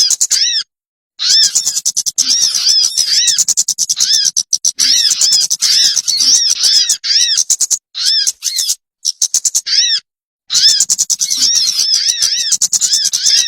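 Bird lure call recording: a bird's rapid, repeated arched chirps mixed with dense clicking, played in bursts that cut off abruptly into short silences.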